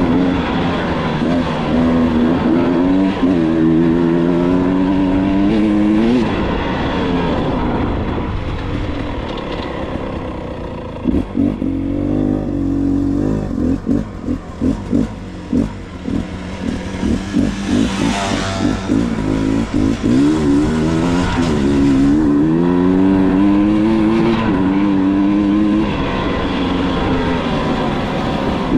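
Dirt bike engine running hard, its revs climbing and dropping again and again as it accelerates and changes gear. Around the middle the throttle comes on and off in short choppy blips.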